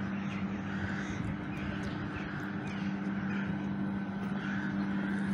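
Steady low hum of a train, with short calls repeating over it.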